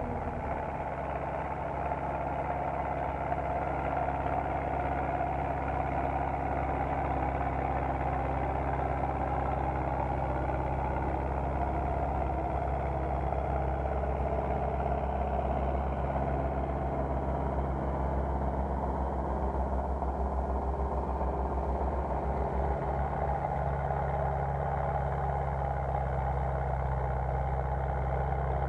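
Belarus MTZ tractor's four-cylinder diesel engine running at a steady speed while pulling a plough.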